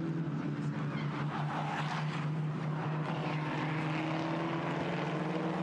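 Steady engine drone at one pitch, rising slightly near the end.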